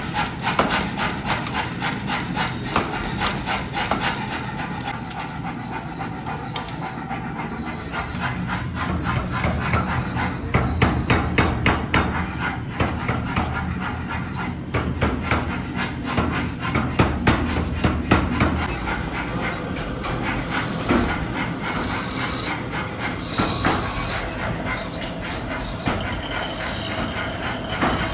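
Metalworking noise: a fast, even run of strikes with a rasping, scraping edge, changing about two-thirds of the way through to a high-pitched squeal over the continuing noise.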